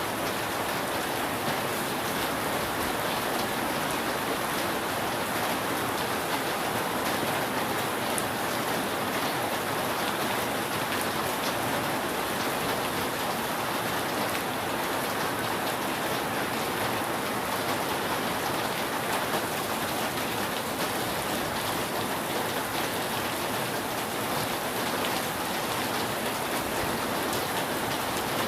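Steady rain falling on a roof: a dense, even patter of drops with no thunder.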